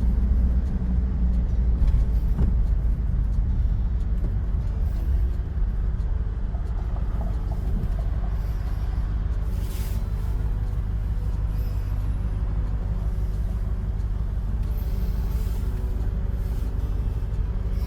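Engine of a 1976 Rolls-Royce Silver Shadow, a V8, running steadily with a low rumble. A brief hiss comes about ten seconds in.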